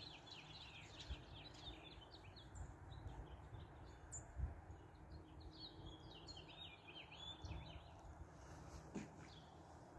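Birds chirping in quick high twitters, in two spells: one over the first couple of seconds and another from about five to eight seconds in, over a faint low rumble.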